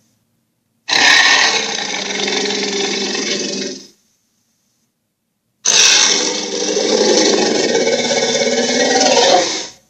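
Two recorded sound effects from a Puss in Boots dragon toy, one about three seconds long starting a second in and another about four seconds long starting halfway through, with dead silence before and between them.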